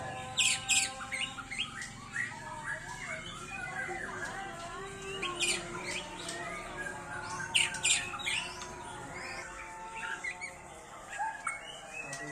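White-rumped shama (murai batu) singing a varied song of short whistled phrases and glides, broken by sharp, harsh notes.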